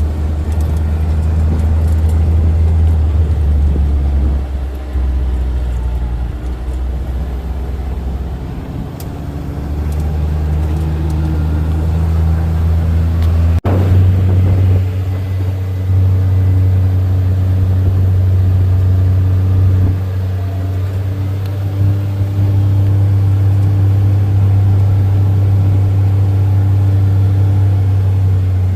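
An engine running steadily with a low drone. About halfway through, it breaks off sharply and resumes a little higher in pitch.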